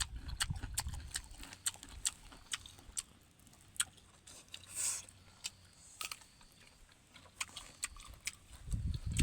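An animal biting and chewing mango: irregular sharp crunching clicks, a few a second, with a low rumble that swells near the end.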